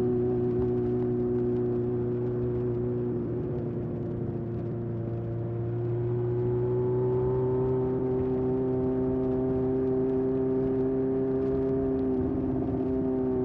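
A 1981 Honda CB750F's air-cooled inline-four running through a period Yoshimura muffler while riding. The steady exhaust note breaks up briefly about three seconds in, then climbs slowly, and breaks up briefly again near the end.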